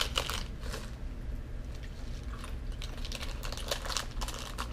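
Chocolate-covered cornflakes being bitten and chewed, with some crinkling of the plastic wrapper: a dense run of small crisp crunches and clicks.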